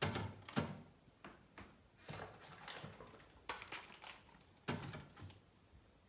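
Household handling sounds in a kitchen: about six separate knocks and thuds of things being moved and set down, with some clatter between them.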